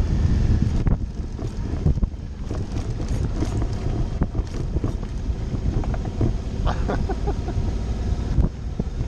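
Suzuki V-Strom motorcycle's V-twin engine running on a rough dirt trail, with many short knocks and rattles from the bumpy ground.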